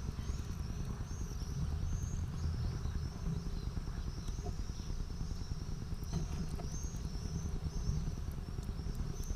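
Birds calling in a long run of quick, high, thin notes over a steady low rumble.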